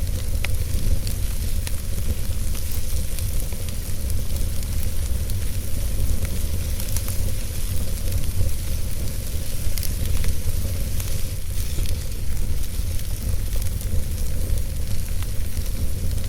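Wood fire burning in a fireplace: a steady low rumble and hiss of the flames, with scattered small crackles and pops throughout.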